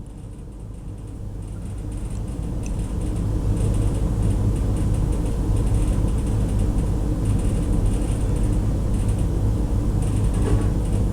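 A steady low mechanical rumble with a deep hum, swelling over the first three seconds or so and then holding level.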